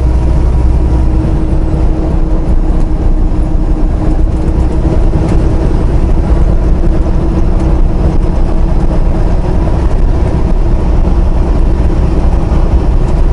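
Steady engine drone and road noise inside a semi-truck cab while driving on the highway.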